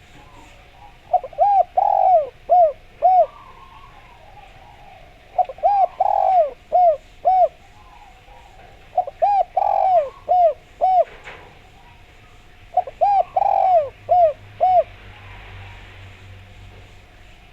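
Spotted dove (derkuku) cooing: four repeated song phrases, each a quick run of five or six arched coo notes, about four seconds apart.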